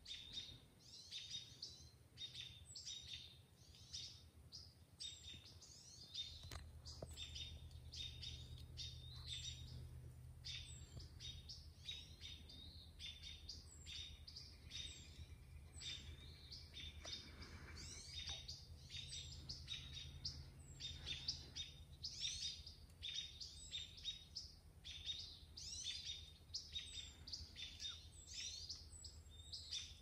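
Songbirds chirping: short, high calls repeating about twice a second, with a faint low hum underneath.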